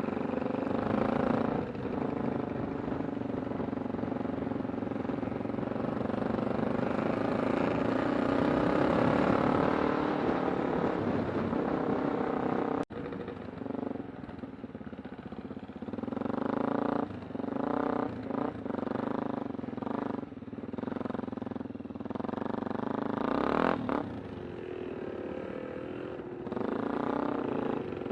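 Kawasaki Super Sherpa's 250 cc single-cylinder four-stroke engine running under steady throttle while riding. After a sharp click about 13 seconds in, the throttle is opened and closed in short repeated bursts.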